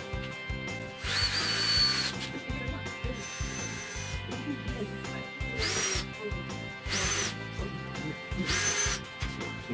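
A power drill or screwdriver runs in five short bursts, each whine rising quickly and then holding steady. The first burst is the longest and loudest, and background music plays underneath.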